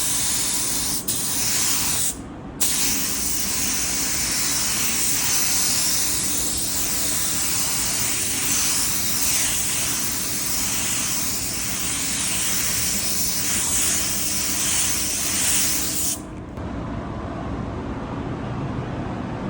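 Pneumatic paint spray gun hissing as it sprays paint, with a short break about two seconds in. It cuts off about sixteen seconds in, leaving a quieter low rumble.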